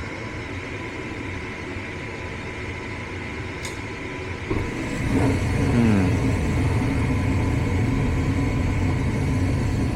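A steady mechanical hum. About halfway through, a louder, lower motor sound starts, its pitch sliding down briefly before it settles into a steady run.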